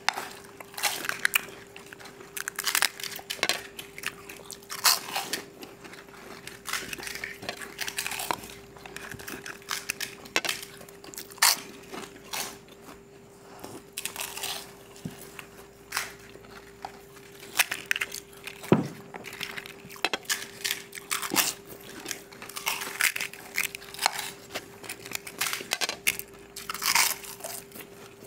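Several people biting into and chewing crisp pani puri (golgappa) shells, a run of irregular crunches and chewing with a steady hum underneath.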